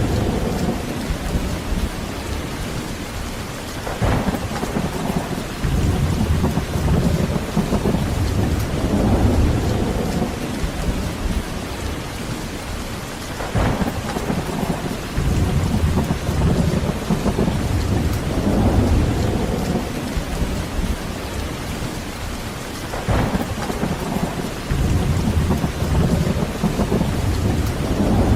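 Heavy rain falling steadily, with low rolling thunder that swells and fades repeatedly. A short, sharper crack comes about every nine seconds.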